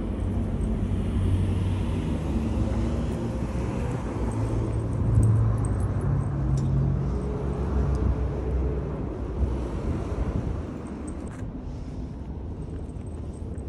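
Low rumble of a motor vehicle's engine running close by, with a steady hum. It is loudest in the middle and dies down about eleven seconds in.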